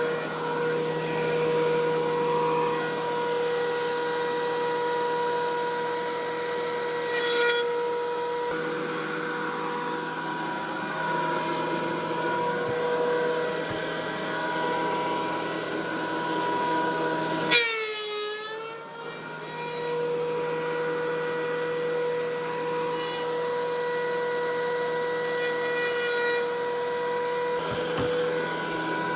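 Thickness planer running with a steady whine while a cupped ash board feeds through it. About two-thirds of the way in, the pitch and loudness briefly drop, then climb back up.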